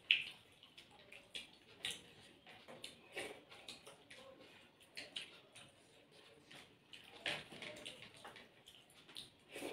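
Close-miked eating sounds of people eating rice and curry with their hands: wet chewing and lip smacks making a string of soft, irregular clicks, the sharpest right at the start.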